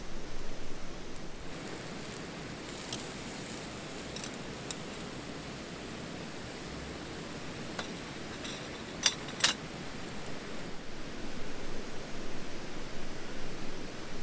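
Steady outdoor hiss with a handful of sharp clicks and light clinks scattered through it. The loudest are two close together about nine seconds in.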